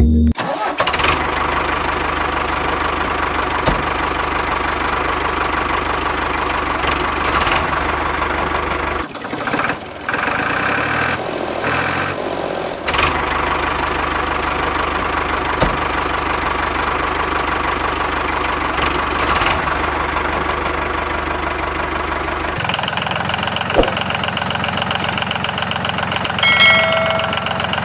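Small motor of a miniature tractor running steadily with a low, even hum. The sound breaks off briefly about nine seconds in and changes character a few times later.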